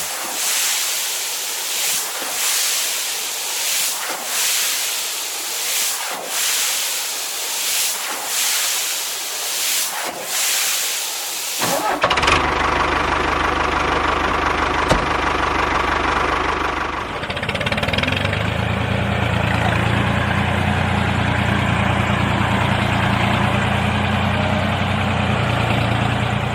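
A hiss that swells and fades about every second and a half, cut off suddenly by the sound of a large engine starting. About five seconds later it settles into a steady, deep idle.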